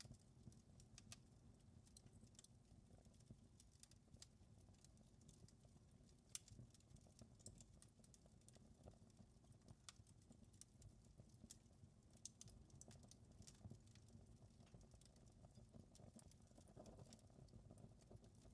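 Wood fire crackling faintly: irregular sharp pops and snaps scattered over a low steady rumble.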